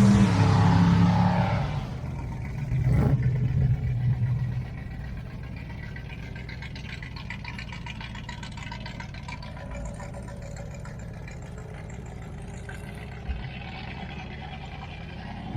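Car engines running as vehicles drive past: the first, loud at the start, rises in pitch and fades within about two seconds, a second engine passes from about two and a half seconds in, then a lower steady engine rumble continues.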